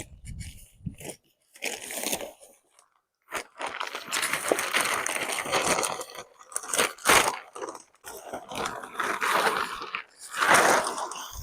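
Irregular crunching and rustling, broken by sharp clicks and knocks.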